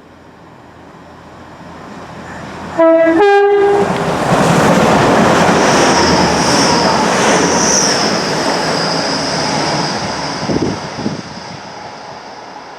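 A locomotive-hauled train approaching sounds its two-tone horn, two short notes with the second higher, about three seconds in. It then passes loudly with rushing wheel and rail noise and a steady high whine, fading toward the end.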